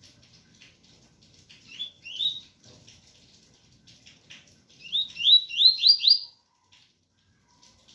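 Double-collared seedeater (coleiro) singing its 'tui-tui' song: two rising whistled notes about two seconds in, then a quick run of five rising notes, each a little higher, about five seconds in. Faint rain patters underneath.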